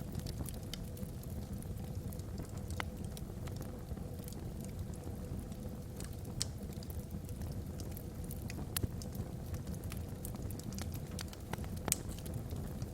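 Wood logs burning in a fireplace: a steady low rumble of the flames with irregular sharp crackles and pops, a few louder snaps standing out.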